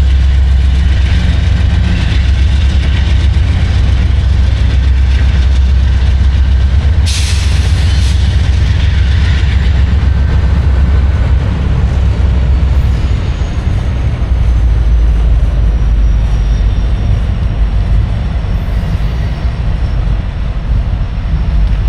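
Train running on the tracks close by: a loud, steady, heavy rumble, with a short burst of hiss about seven seconds in.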